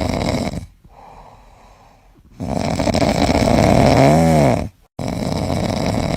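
A dog making raspy, snore-like vocal sounds, with one short rising-and-falling whine about four seconds in. The sound breaks off suddenly near the end and then resumes.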